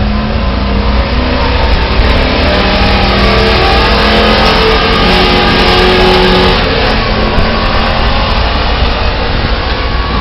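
Pulling truck's engine running hard at high revs under heavy load during a truck pull, loud and steady; its even note breaks up about two-thirds of the way in.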